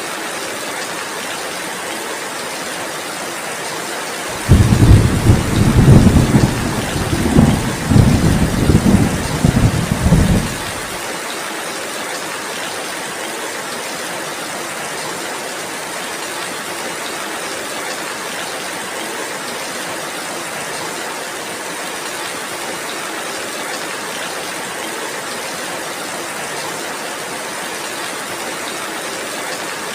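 Steady heavy rain hissing, with a rolling rumble of thunder in several swells from about four seconds in. The thunder lasts some six seconds, is louder than the rain, and then fades out.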